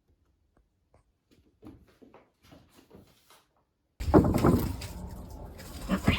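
Faint light taps and scuffs, then about four seconds in a sudden loud stretch of domestic cats fighting, with a cat's yowl and a sharp knock just before the end.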